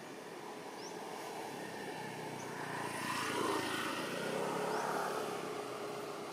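A vehicle engine passing by, growing louder from about two seconds in, loudest in the middle and fading toward the end.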